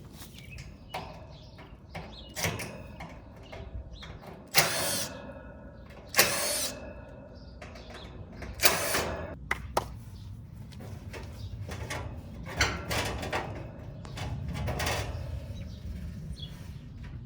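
Sheet-metal casing of an air-conditioner condenser unit being taken apart by hand: a series of clanks and short, loud metallic scrapes, three of them standing out in the middle, with smaller knocks between.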